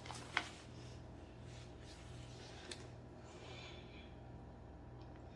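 A few light clicks and a brief soft rustle as furniture assembly parts are handled, over a steady low hum.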